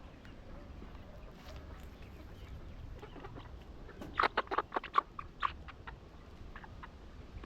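Young layer chickens calling in a poultry house: scattered short calls, with a quick flurry of them about four seconds in.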